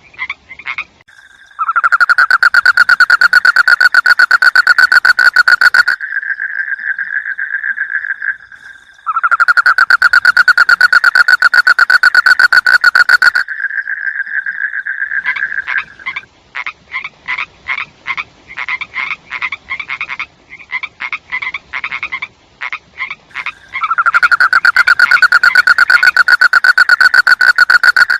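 Frogs calling: three loud, rapid pulsing trills of about four seconds each, with quieter, choppier croaks in the gaps between them.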